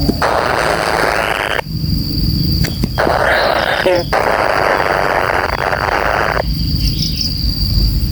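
Kingfisher giving harsh, rattling calls in several bursts of one to two seconds, with short pauses between. A thin, steady, high insect-like buzz runs underneath.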